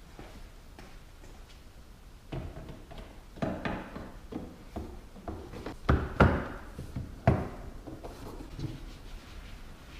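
Plastic engine cover being set back onto the engine and pressed down onto its mounts: a series of knocks and thumps, the loudest about six and seven seconds in.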